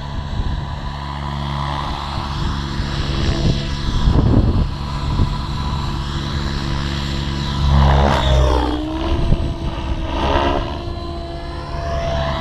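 Align T-Rex 700 Pro RC helicopter flying, its rotor and drive giving a steady multi-toned whine that bends and glides in pitch about eight seconds in as it manoeuvres. Gusty wind rumbles on the microphone underneath.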